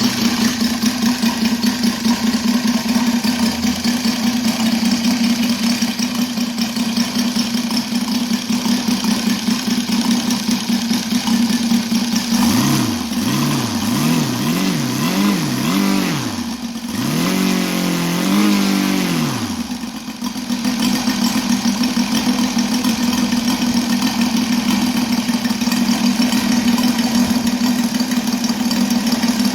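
Saito FG-33R3 three-cylinder four-stroke gasoline radial engine with a homemade copper-tube ring exhaust, running at a steady idle. A little under halfway through it is blipped up and down about five times in quick succession, then revved once for longer, before settling back to idle.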